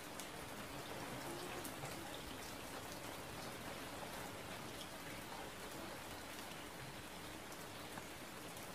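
Steady hiss of falling water, with a few faint knife taps on a wooden cutting board.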